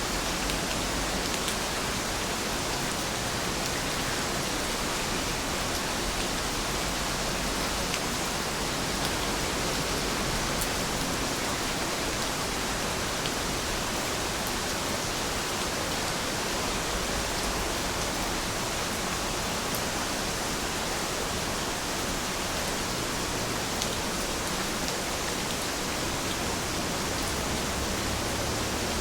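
Steady rain, a dense even hiss with a few faint drop ticks scattered through it.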